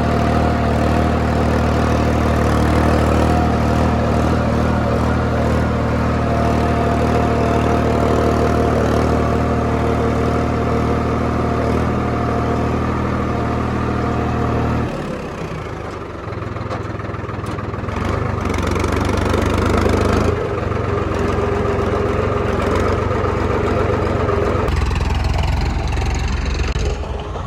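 Tractor engine running steadily. Its note drops about halfway through, then shifts up and down a few more times.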